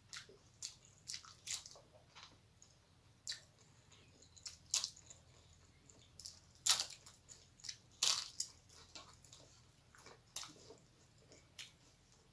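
Close eating sounds: a crisp papad bitten and chewed, giving irregular sharp crunches, the loudest about seven and eight seconds in, with wet chewing and squishing between them.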